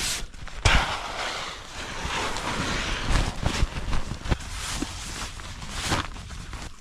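Wind blowing in a snowstorm, gusting and rumbling on the microphone, with a few short knocks scattered through it.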